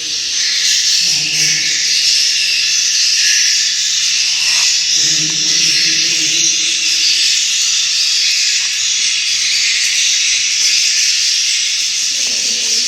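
Dense, steady high-pitched twittering of swiftlet calls filling a swiftlet house, a hissing wash of many overlapping chirps.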